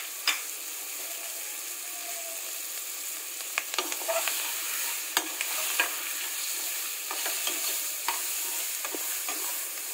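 Sliced onions frying in hot oil in an aluminium pressure cooker, a steady sizzle, while a slotted steel spatula stirs them, scraping and clicking against the pot now and then.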